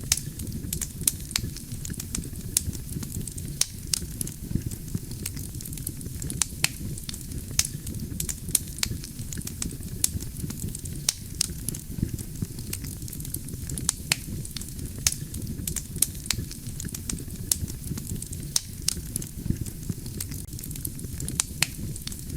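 Wood fire burning: a steady low rumble of flames with frequent sharp crackles and pops from the burning logs, several a second.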